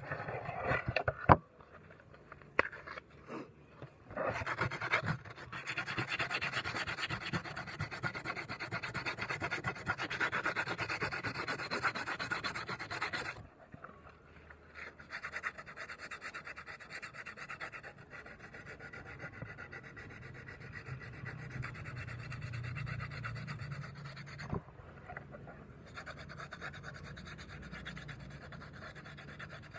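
Sandpaper rubbed by hand over a cured fiberglass-and-resin patch on a motorcycle fairing, in fast back-and-forth rasping strokes. A few knocks come at the start, and the rubbing stops briefly about halfway through before going on more softly.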